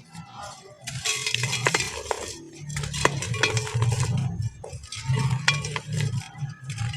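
Chunks of black sand crumbling apart in gritty crunches with sharp little clicks, coming in bursts that start about a second in and pause briefly now and then.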